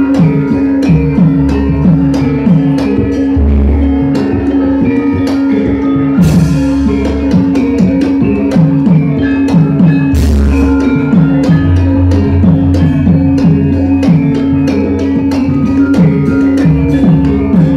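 Javanese gamelan ensemble playing wayang music: ringing bronze metallophones and gongs over a quick, steady run of hand-drum strokes that drop in pitch. Two sharp crashing hits stand out, about six and ten seconds in.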